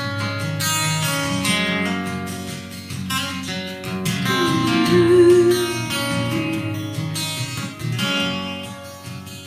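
Acoustic guitar strummed in an instrumental break between the chorus and the next verse of a song.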